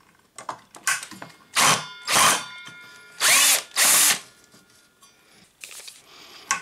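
Electric drill-driver running in four short bursts of about half a second each, with small clicks between them.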